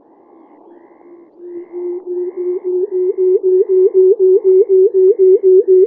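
Male pectoral sandpiper giving its booming display call: a rhythmic series of low hoots, about three a second, each ending in a quick upward flick. The hoots grow louder over the first few seconds.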